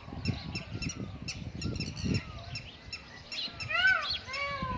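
Wind gusting on the microphone while a flock of wild peafowl and other birds call: a steady stream of short chirps, with a burst of loud arching calls about four seconds in.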